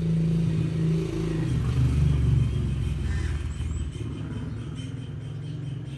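A motor vehicle passing close by: a low engine rumble that swells over the first couple of seconds, then fades.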